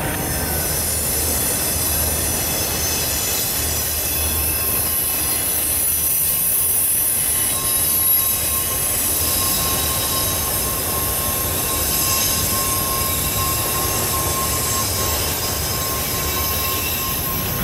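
Freight train cars rolling past while the train slows, steel wheels squealing in several steady high tones over a low rumble of the running gear.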